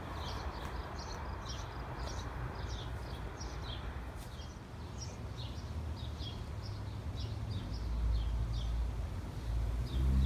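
Small birds chirping, short high notes repeated two or three times a second, over a low rumble that grows louder near the end.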